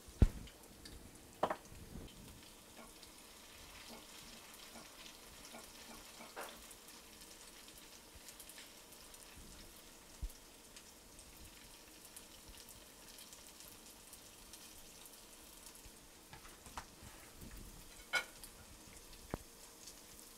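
Cauliflower patties frying in shallow oil in a skillet: a steady, soft sizzle, broken by a few sharp clicks, the loudest just at the start.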